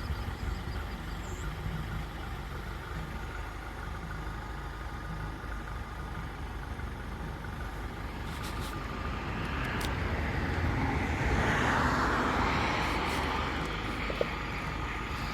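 Road traffic heard from inside a vehicle: a steady low rumble, with a passing vehicle swelling louder about ten seconds in and fading away a few seconds later.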